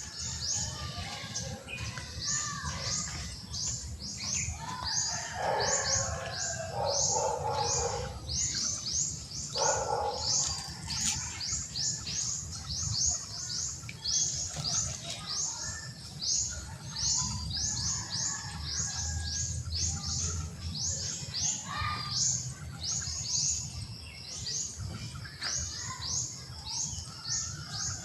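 Birds chirping: a high, short chirp repeats about three times a second throughout, with lower, fuller calls from other birds now and then, over a steady low rumble.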